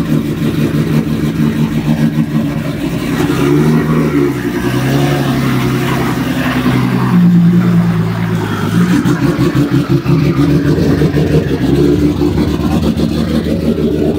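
Engine of a 1,300-horsepower Nissan Z drift car running loud, its revs rising and falling, with a higher held pitch for a couple of seconds past the middle.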